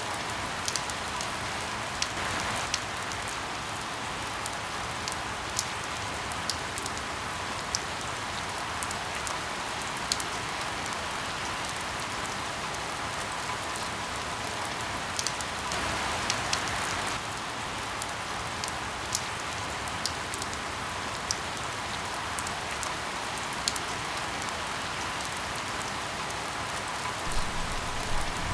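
Steady rain with scattered sharp pops of crackling firewood, a few more of them near the end.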